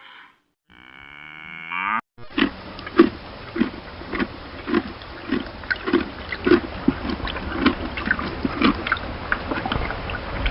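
A farm animal making short calls over and over, about twice a second, over a steady noisy background. In the first two seconds, before them, there is a separate rising pitched sound that stops abruptly.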